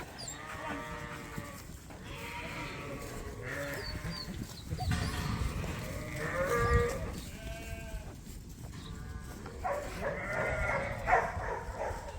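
Sheep bleating, a string of separate calls of about a second each from several animals, one after another.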